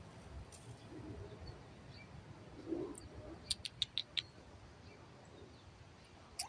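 Birds calling outdoors: a soft low coo just under three seconds in, then a quick run of about five short, high chirps.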